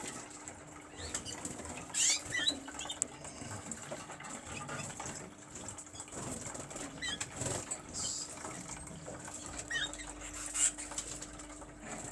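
Caged canaries fluttering their wings and hopping about, with short high chirps now and then. The loudest bursts of flapping come about two seconds in, near the middle, and near the end.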